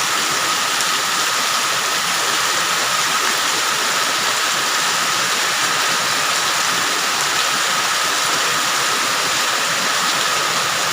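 Water rushing steadily through a swollen drain channel in heavy rain, an even, unbroken rush.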